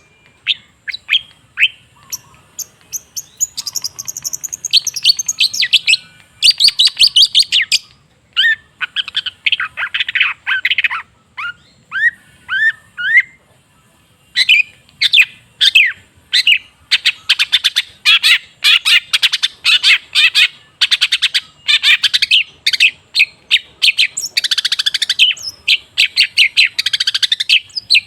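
Long-tailed shrike (cendet) singing: rapid runs of harsh chattering notes and fast trills, in bursts broken by short pauses.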